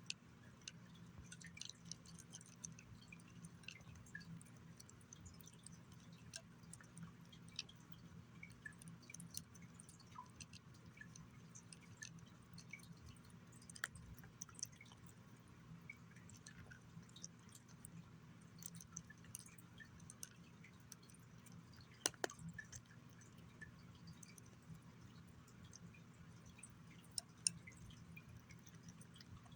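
A cat chewing and licking chicken and egg: faint, irregular wet clicks and smacks, with a couple of sharper clicks about two-thirds of the way in and again near the end, over a low steady hum.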